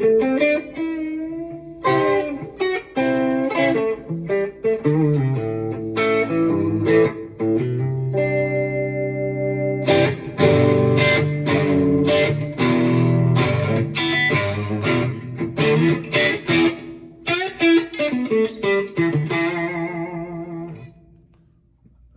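Electric guitar played through the Two Notes Opus's FlatBack V amp simulation on a clean setting: a mix of picked chords and single notes, with a bend near the start and a held chord partway through. It fades out just before the end.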